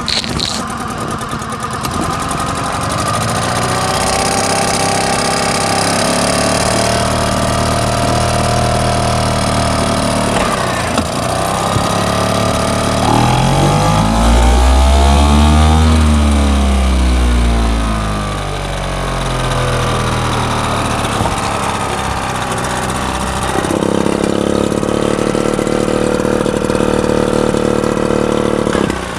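A small boat's engine running under way, its pitch climbing and then falling back about halfway through as the throttle is opened and eased, then settling at a steady speed near the end.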